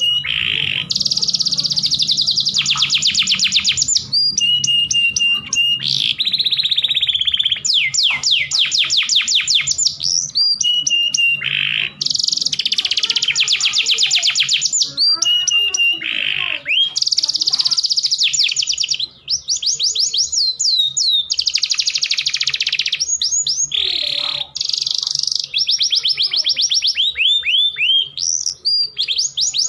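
Domestic canary song: long, fast trills of repeated high falling notes, rolls and short held whistled notes, with brief pauses between phrases.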